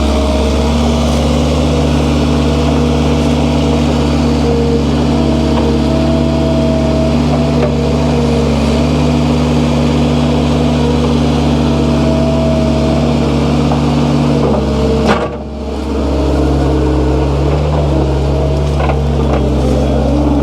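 Skid steer engine running steadily, heard from inside the cab, with a brief drop in level about fifteen seconds in.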